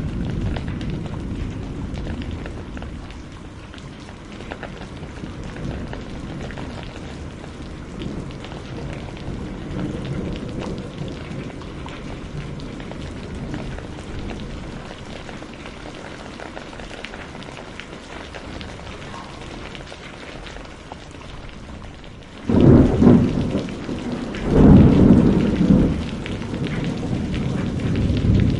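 Steady rain with low rolling thunder, then a sudden loud thunderclap about three quarters of the way in, rumbling for a few seconds before settling back to rain.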